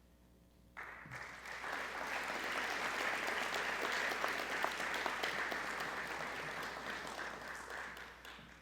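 Audience applauding: the clapping starts suddenly about a second in, holds steady, then tapers off near the end.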